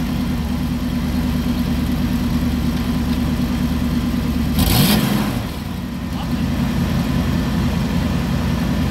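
1991 Ford F-350 pickup's gasoline engine idling, with one short rev about halfway through that comes with a brief loud burst of noise.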